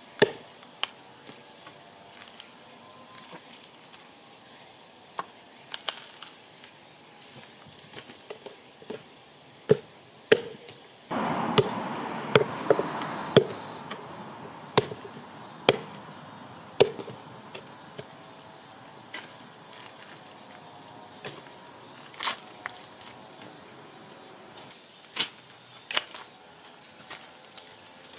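Wood fire crackling, with irregular sharp pops and a denser burst of crackle about eleven seconds in; insects chirp faintly throughout.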